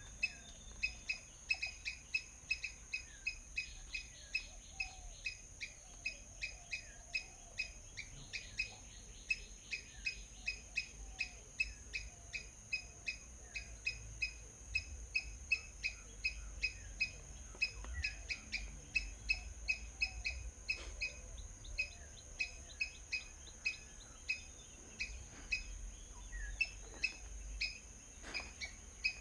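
Small birds chirping, short sharp chirps repeating two to three times a second, over a steady high-pitched insect drone.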